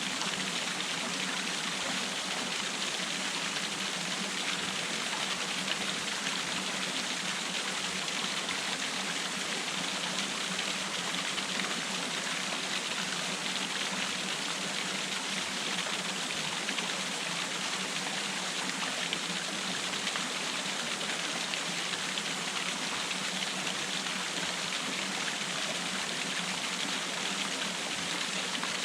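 Water falling in a small waterfall, a steady, even rush of splashing water with no breaks or changes.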